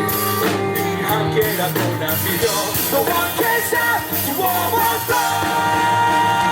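Live rock band playing with drums, bass and guitar under a melody of held, bending notes. A long held note comes in near the end.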